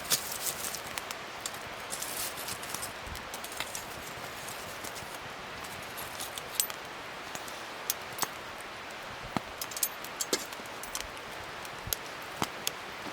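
Wood fire burning: a steady soft hiss with scattered sharp crackles and pops at irregular intervals.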